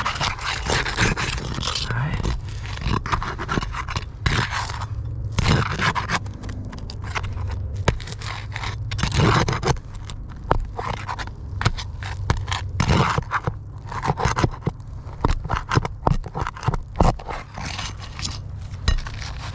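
Low-profile steel flat bar prying under asphalt roof shingles, scraping, with irregular crackles and sharp clicks as the shingles' sealed tar strips break loose.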